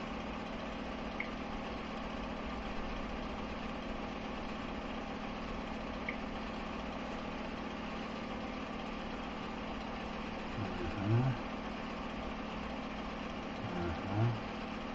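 Steady mechanical hum of a machine running, with two faint clicks and two brief low voice sounds near the end.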